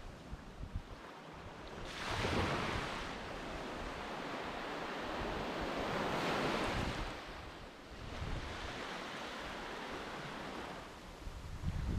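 Sea waves washing onto a beach, the surf swelling a few times about four seconds apart, with wind rumbling on the microphone.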